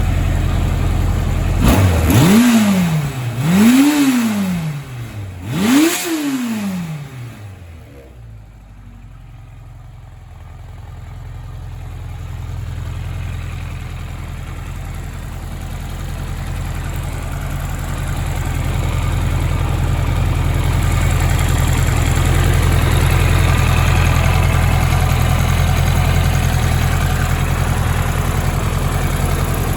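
1983 Kawasaki Z1000R2's air-cooled inline-four engine blipped three times, each rev rising and falling in pitch about two seconds apart. It then settles back to a steady idle, fainter for a few seconds before getting louder again.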